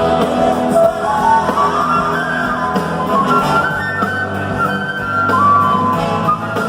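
Rock band playing live, a lead melody line gliding up and down in pitch over the full band.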